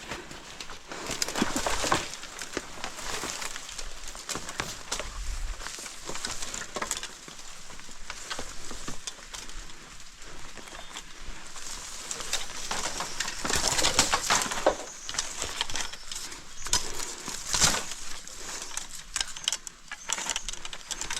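Footsteps and rustling through forest undergrowth, an irregular run of crackles that bunches up louder now and then, with a bird calling in the background.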